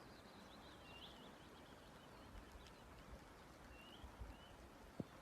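Near silence with faint, scattered bird chirps and a single click near the end.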